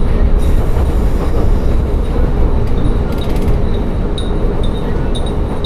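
Tsugaru Railway diesel railcar running between stations, a steady low rumble of engine and wheels on the track. From about four seconds in, short high tinkling pings are heard, fitting the glass wind chimes hung inside the car.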